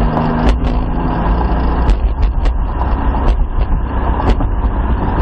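Toyota Supra's engine running under power, heard from inside the cabin as a steady low drone, with several short sharp knocks and rattles scattered through it.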